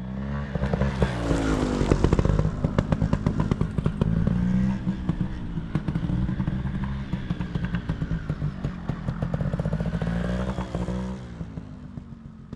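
GasGas TXT Racing 250 trials motorcycle's single-cylinder two-stroke engine running and being revved, its pitch rising and falling several times. It starts suddenly and eases off near the end.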